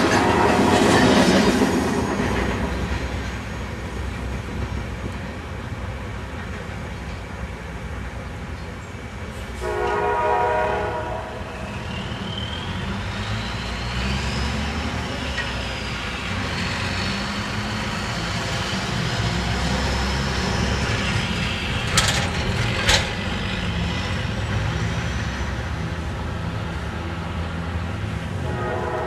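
CSX freight train led by GP39-2 diesel locomotives, its horn sounding at the start, again about ten seconds in and at the very end. Between the horn blasts comes a steady low engine and rail rumble, with a high whine that rises and falls and two sharp clicks a second apart.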